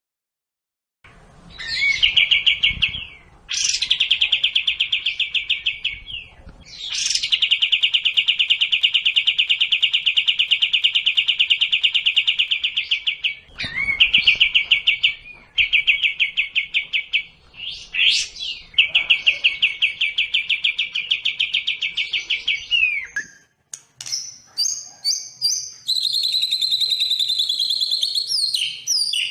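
Songbird song from a sekoci and white-rumped shama training recording: long bouts of fast, even trills broken by short upward-sweeping notes, then in the last few seconds a varied, higher-pitched song of separate notes.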